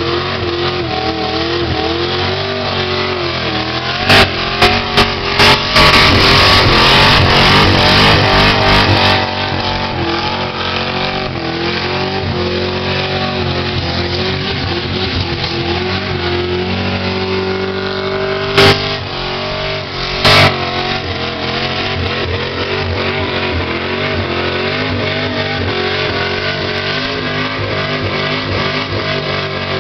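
A car's engine held at high revs, the pitch wavering up and down, as it spins its tyres in a burnout. A louder stretch about four to nine seconds in is broken by several sharp bangs, and two more sharp bangs come near the middle.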